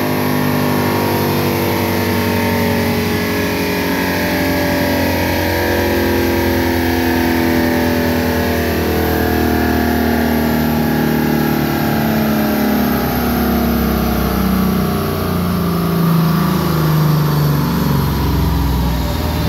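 Lexus IS F's 5.0-litre V8, fitted with long-tube headers and an Xforce Varex exhaust, running hard on a chassis dyno. The note holds steady for a while, then slowly falls in pitch in the second half, with a faint high whine falling along with it.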